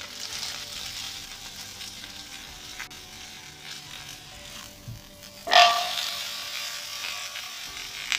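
Thin potato slices frying in margarine in a hot non-stick pan, sizzling steadily. About five and a half seconds in there is one sudden, loud flare of sizzling with a brief metallic ring, as the layer of slices is flipped over and lands back in the hot pan.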